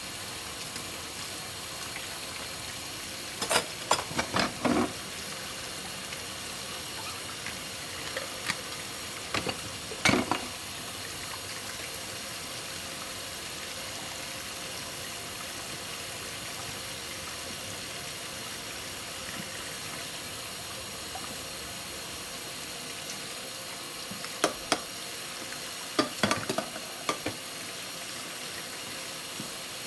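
Steady flow of water at a kitchen sink, with dishes clinking and clattering every so often: a few knocks about four seconds in, a sharp one around ten seconds, and a cluster near the end.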